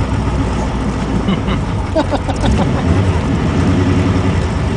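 Corvette V8 engine and exhaust rumbling steadily at low parade speed, with faint crowd voices in the background about two seconds in.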